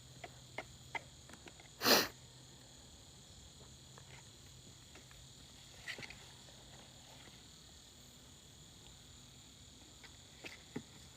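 Steady evening chorus of crickets, a thin high hum, with a short sharp sneeze-like burst about two seconds in and a few faint clicks.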